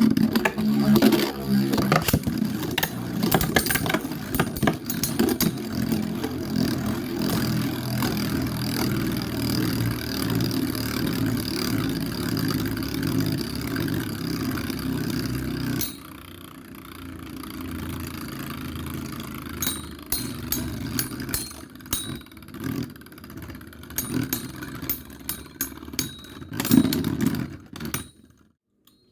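Two metal Beyblade spinning tops, Dark Capricorne 105RF and Storm Aquario M145Q, whirring and clashing in a battle stadium, with a steady grinding whir and many rapid clicks of contact. About halfway through the whir drops sharply, leaving fainter spinning and scattered clicks.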